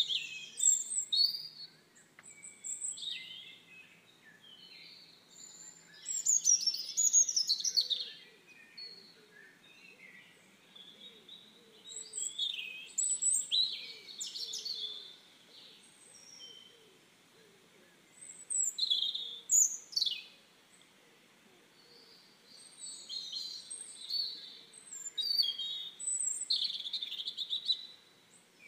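Songbirds chirping and singing, several calls overlapping in bouts a few seconds long with brief lulls between.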